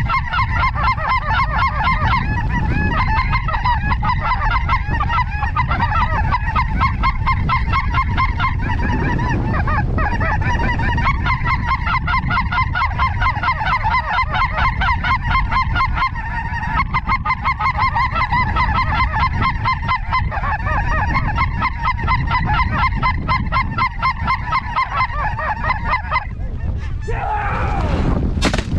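Snow geese calling, a dense chorus of rapid overlapping honks, over wind rumbling on the microphone. The calling cuts off suddenly near the end.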